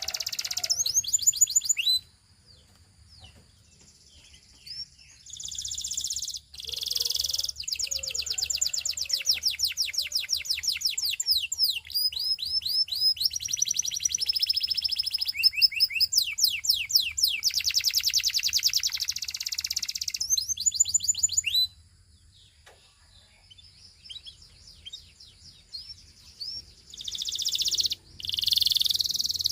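A canary singing long high-pitched phrases of fast trills and rapidly repeated notes, broken by two pauses of a few seconds.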